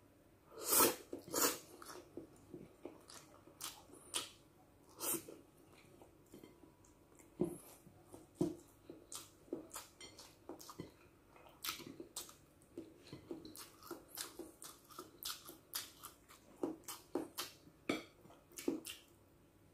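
Close-up eating sounds: a person eating stir-fried noodles and rice by hand, chewing with irregular wet smacks and clicks of the mouth, two louder ones about a second in.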